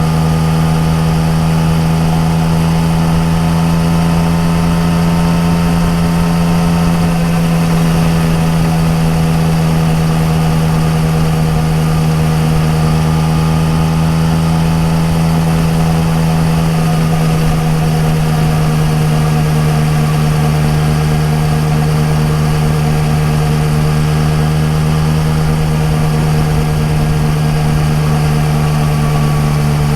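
Yamaha MT-09 Tracer's inline three-cylinder engine running steadily through an Akrapovic exhaust at cruising speed. Its pitch dips slightly twice, about a quarter of the way in and again a little past halfway.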